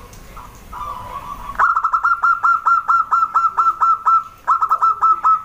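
Zebra dove (perkutut) singing: a fast, even run of short clipped cooing notes, about five a second. The run starts about a second and a half in, breaks briefly, then a shorter run follows near the end.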